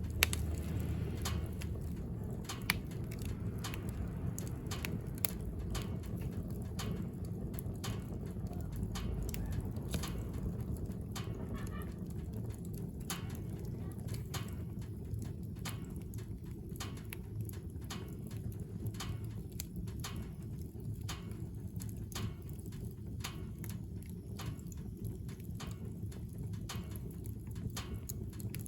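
Wood fire burning in a wood stove, crackling with irregular sharp pops over a steady low rumble.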